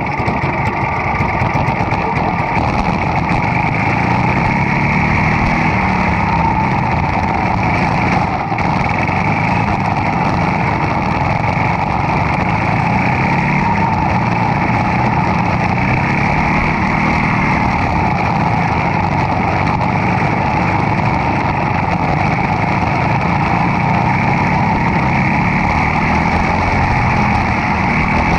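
Demolition derby car engine running hard, its pitch rising and falling as it revs up and down.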